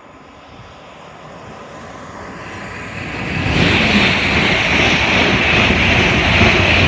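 London Northwestern Railway electric multiple unit running past close to the platform. Its rumble grows louder over the first three and a half seconds as it approaches, then holds as a loud steady rush of wheels on rail and air.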